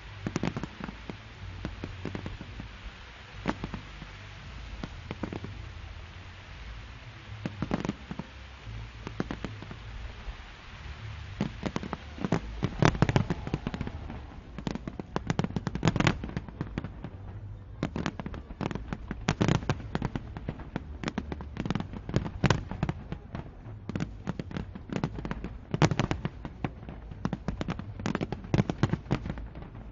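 Fireworks exploding in a continuous display: scattered bangs for the first ten seconds or so, then a dense, rapid run of bangs from about twelve seconds in.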